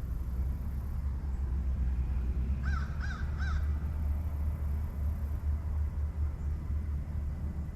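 A bird calling three times in quick succession about three seconds in, harsh caw-like calls, over a steady low rumble.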